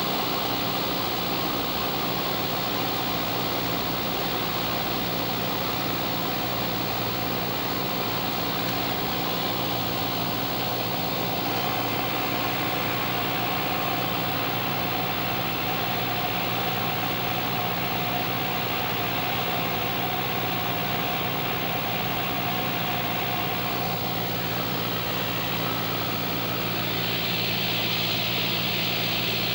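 Cessna's single piston engine and propeller droning steadily on approach to land, with a hiss of rushing air that grows louder near the end.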